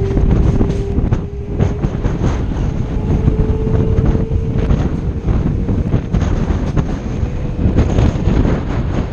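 Wind buffeting the camera microphone on the outside of a moving train, over the rumble of its wheels on the rails with frequent clicks from the track. A faint steady whine rises slightly in pitch.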